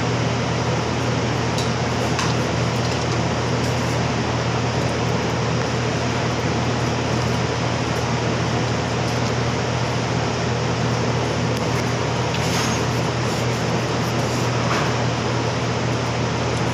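A steady mechanical hum with an even rush of air noise, unchanging throughout, with a few faint clinks in the second half.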